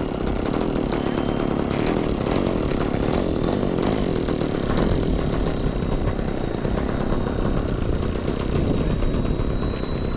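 A small model airplane glow engine runs steadily with a buzzy, chainsaw-like sound. A thin high whine slowly rises in pitch through it.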